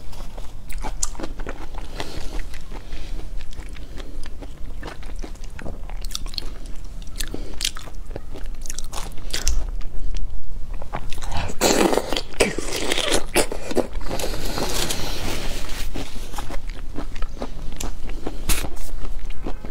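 Close-miked eating sounds of chewing and biting into whole raw shrimp in soy-chili marinade: a steady run of short, sharp clicks, with a louder, denser stretch about twelve seconds in.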